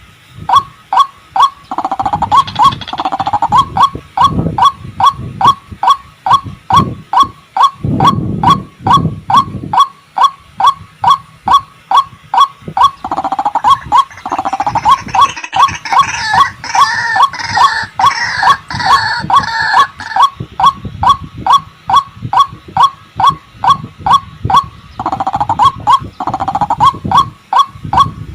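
White-breasted waterhens (ruak-ruak) calling: a loud, steady run of short repeated notes, about two a second, with a second, higher chattering voice joining for several seconds midway.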